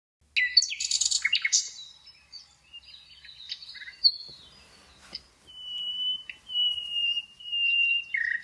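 Birdsong: a burst of quick chirps and sweeping notes at the start, scattered fainter calls, then long, nearly steady whistled notes in the second half.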